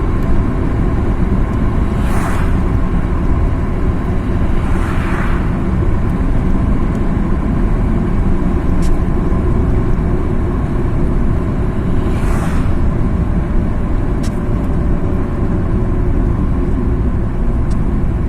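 Car driving: steady low engine and road noise, with three brief whooshes along the way.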